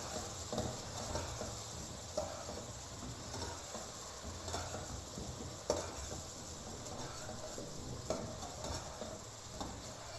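Chicken pieces and potatoes sizzling in hot oil in a pot while a spoon stirs them, with a handful of clinks and scrapes of the spoon against the pot.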